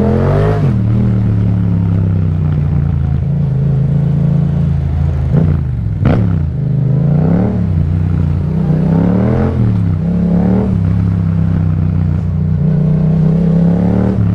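Yamaha MT-07's parallel-twin engine running through an Akrapovic exhaust while riding. Its pitch drops and climbs back a few times, around the middle and again later on, as the throttle is rolled off and opened again.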